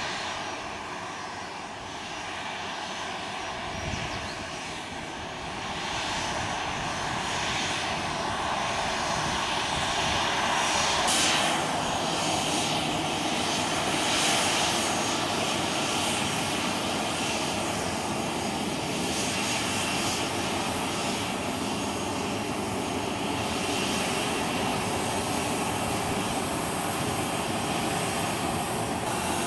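Jet engines of a Boeing 737-900ER running, a continuous rushing noise with faint steady whining tones, growing louder about ten seconds in and then holding steady.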